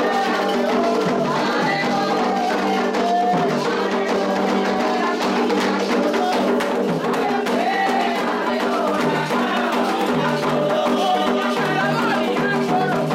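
Candomblé toque: voices singing a chant over a steady beat of atabaque hand drums and percussion.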